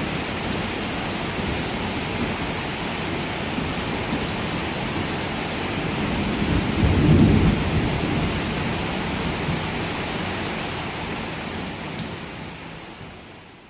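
Heavy rain pouring down in a steady hiss, with a low roll of thunder swelling about seven seconds in. The sound fades out near the end.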